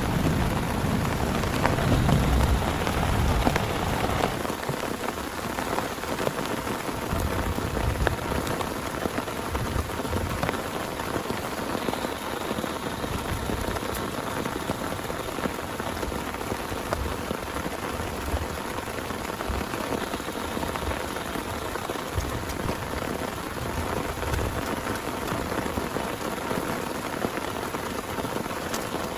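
Heavy rain falling steadily. A low rumble of thunder dies away in the first few seconds.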